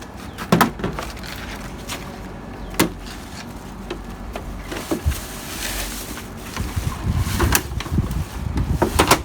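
Handling noise from hands and tools at work: scattered sharp clicks and knocks, about five spread through, with rustling between them that gets busier in the second half.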